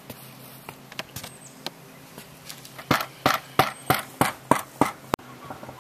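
A hammer driving a nail: a run of about seven quick, sharp strikes, roughly three a second, with a few lighter knocks before them.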